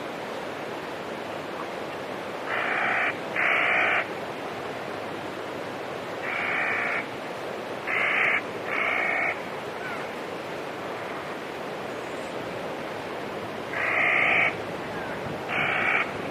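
A bird calling: seven short, harsh calls, about half a second each, in pairs and threes, over a steady rushing background noise.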